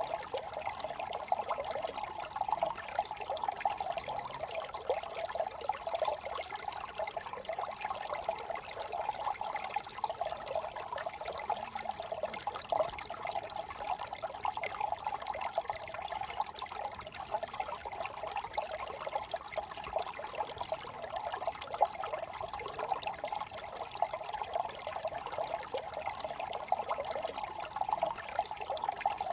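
Small brook trickling and babbling steadily over stones.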